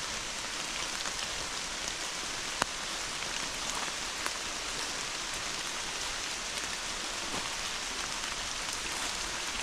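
Rain falling hard and steady, with one small sharp click about two and a half seconds in.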